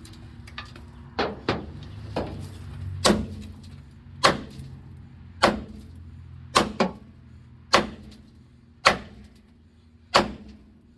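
A hammer striking a stuck brake drum on an old Chevy truck axle, about a dozen sharp ringing blows roughly a second apart, to knock the locked-up drum loose.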